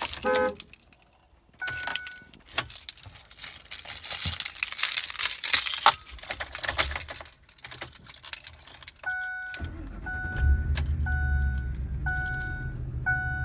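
Keys jangling and rattling for several seconds, then the 2007 Ford F-150's two-note warning chime begins repeating about once a second. Just after, the truck's engine cranks and catches, then runs at a steady idle under the chime; the truck has sat unstarted for a few months.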